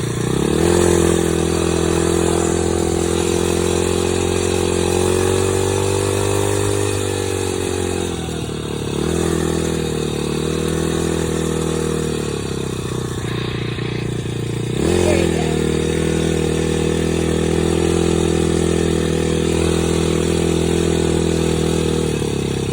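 Dirt bike engine running under way. It revs up just after the start, drops in pitch around seven to eight seconds in, and revs up sharply again about fifteen seconds in before holding a steady pitch.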